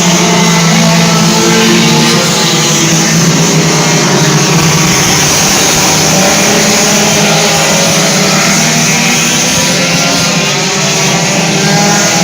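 Several race car engines running hard on a dirt oval, a loud continuous din with engine pitches wavering up and down as the cars go around.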